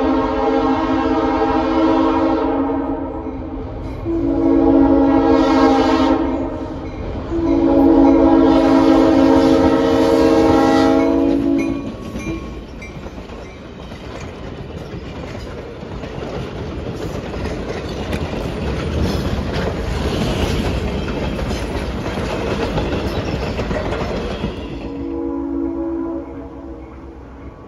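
Locomotive air horn blowing a grade-crossing signal: three blasts, the last held about four seconds. Then the passenger coaches rumble and clack past on the rails. Near the end the horn sounds again, fainter.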